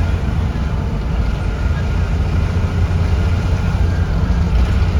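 Blue Bird Vision school bus heard from inside the cabin, its engine running with a steady low rumble.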